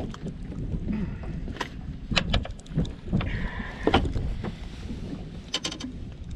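Wind buffeting the microphone in a steady low rumble, with a handful of sharp clicks and knocks, the loudest about four seconds in, and a brief high squeak just before it.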